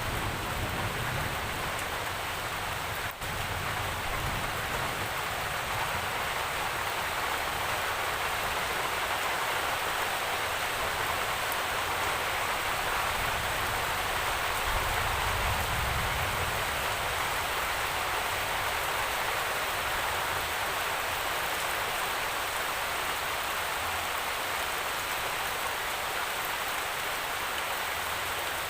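Steady, dense rainfall hissing without a break, with a brief dropout about three seconds in.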